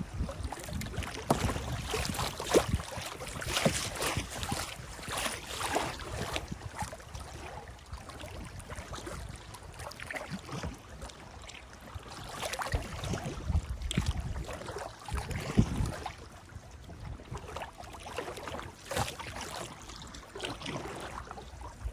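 Kayak paddle dipping and swishing through river water in irregular strokes, with low rumbles of wind on the microphone now and then.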